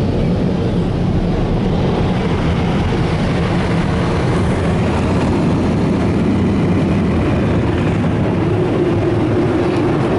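Touchless car wash dryer blowers running, a loud steady rush of air heard from inside the car. A steady hum joins in near the end.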